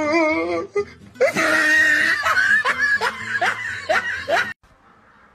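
A voice wavering up and down in pitch, then a person laughing in repeated rising bursts that cut off suddenly near the end.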